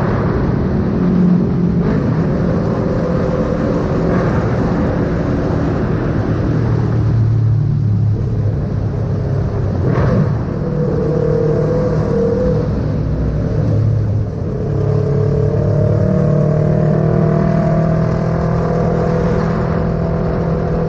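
Yamaha MT-03's parallel-twin engine running under way, its note falling and rising as the rider changes revs.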